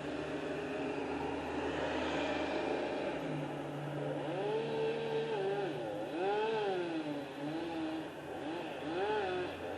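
Chainsaw engine revving up and down several times in quick arcs of pitch, over a steady low engine hum.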